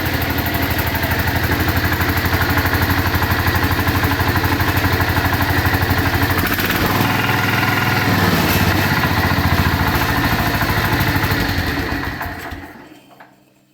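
Cub Cadet 125 Hydro garden tractor's single-cylinder Kohler engine running steadily. Its pitch rises for a few seconds past the middle, and then it is shut off and runs down to silence near the end.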